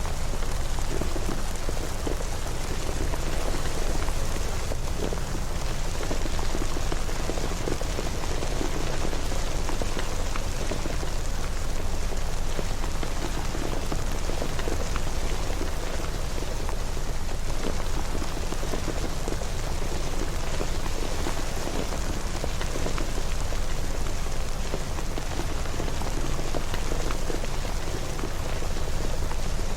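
Steady rain falling, an even hiss with scattered drop patter and a low rumble underneath.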